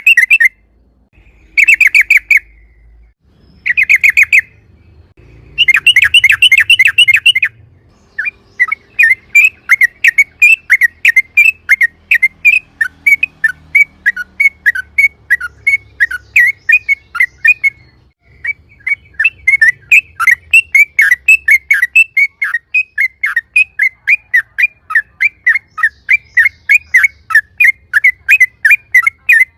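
Yellow-vented bulbul (trucukan) calling: short bursts of rapid chattering in the first several seconds, then a long run of quick repeated chirps, about three a second, with a brief pause partway.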